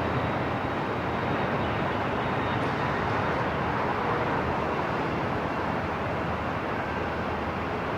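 Steady airport ambience: an even, unbroken rumble and hiss, with a faint high tone in the first few seconds.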